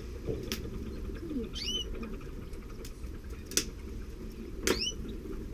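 Canaries in the nest giving two short, high chirps, one about a second and a half in and one near the end, with a few sharp clicks in between.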